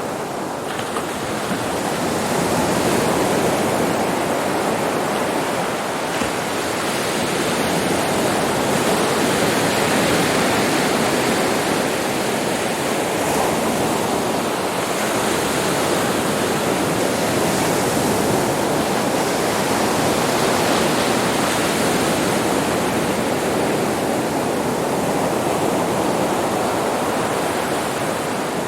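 Sea surf breaking on a beach: a continuous wash of waves that swells and eases slowly over several seconds.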